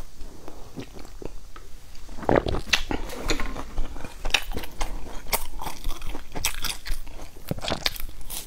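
Close-miked crunching and chewing of a crispy cereal bar with raisins, in many sharp crisp crunches that start about two seconds in.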